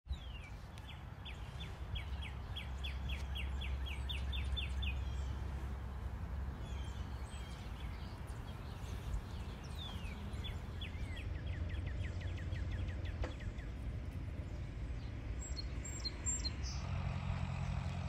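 A songbird singing two long trills of quick, short down-slurred notes, about five a second, over a steady low rumble.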